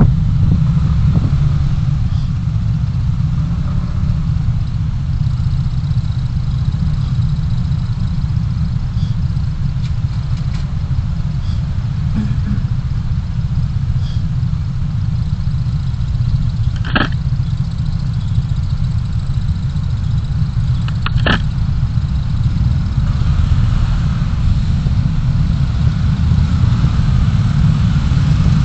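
Car driving, a steady low rumble of engine and road noise as picked up by a dashcam, with two short sharp clicks past the middle.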